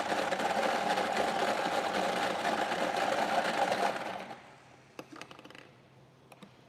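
Lottery draw machine running, a steady mechanical rattle and whirr as it mixes the numbered balls, which cuts off about four seconds in. A couple of faint clicks follow.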